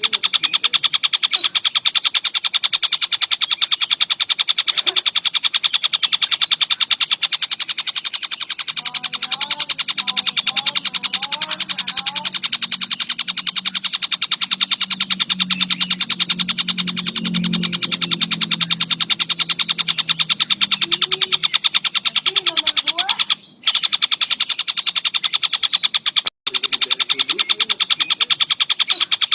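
Tengkek buto kingfisher calling without a break: a fast, high chatter that repeats many times a second, cutting out briefly twice near the end. A low hum sits under the middle part.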